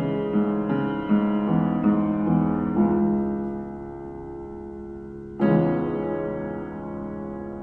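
Background piano music: a run of notes, then a held chord fading away and a new chord struck about five and a half seconds in.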